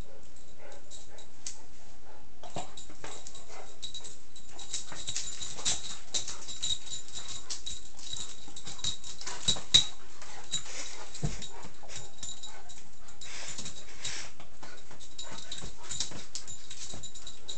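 English mastiff puppy playing: dog noises with scattered knocks and scuffles, the sharpest knock about ten seconds in.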